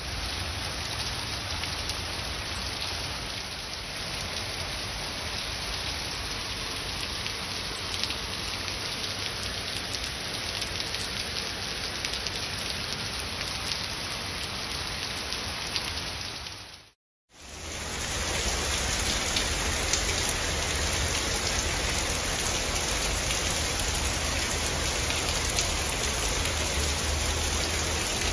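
Heavy rain pouring steadily onto garden trees and wet paving: a dense, even hiss. It breaks off for a moment about two-thirds of the way through, then comes back a little louder.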